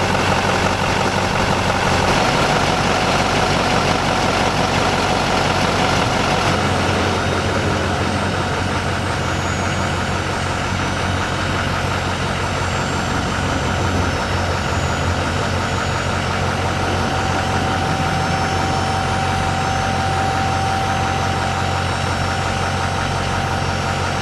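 Chevrolet C6500 Kodiak's 6.6 Duramax V8 turbo-diesel idling steadily, with a faint steady whine joining about two-thirds of the way through.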